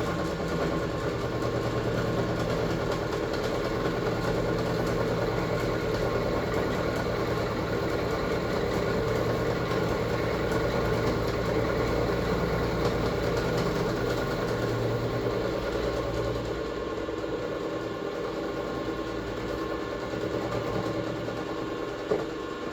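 Air compressor running steadily after start-up, its pump giving a fast, even chugging drone. The lowest part of the drone drops away about two thirds of the way through, and there is a single short knock near the end.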